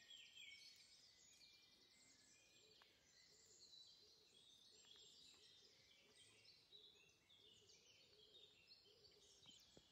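Faint birdsong: several birds chirping and singing at once, overlapping high calls and trills.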